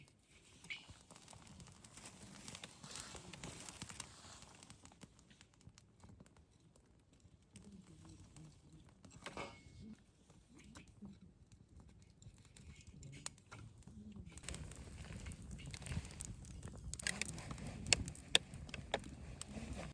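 Crinkling and rustling of something being handled, with scattered light clicks and taps that grow busier in the last few seconds.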